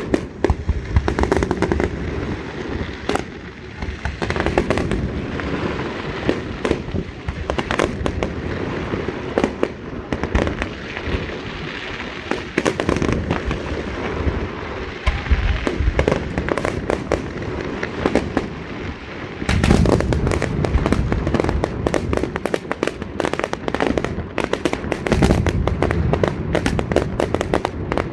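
Fireworks display: a continual series of bangs and booms from aerial shells, turning into a dense, rapid crackling barrage about two-thirds of the way through.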